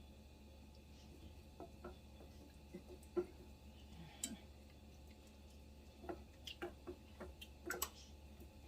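Faint, scattered light clicks and taps of kitchen utensils over a low steady hum, most of them in the latter part.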